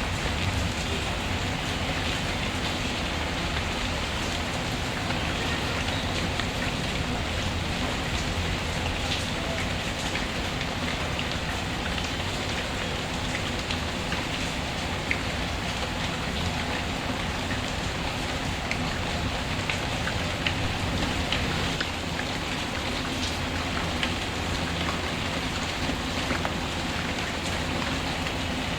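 Steady rain, with scattered small crackles and pops from a wood fire in a fireplace.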